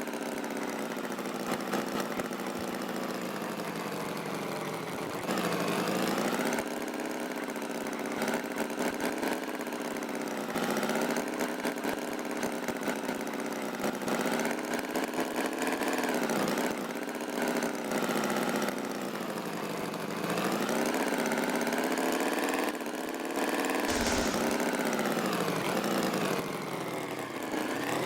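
Cartoon tractor engine sound effect running steadily. Its pitch dips and rises every few seconds like a light revving, and its loudness steps up and down.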